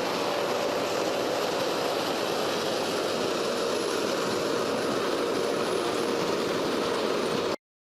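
Steady mechanical drone of a running heavy vehicle or machine, with a faint steady hum, that cuts off abruptly near the end.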